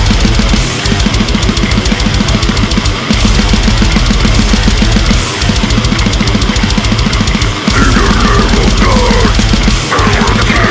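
Extreme metal music: heavily distorted guitars over very fast drumming, with short breaks every two to three seconds. A wavering voice joins about eight seconds in.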